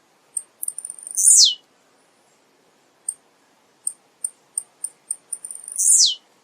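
Male blue-black grassquit (tiziu) singing: a run of short, high ticks, each leading into a loud note that sweeps steeply downward, heard twice, about four and a half seconds apart.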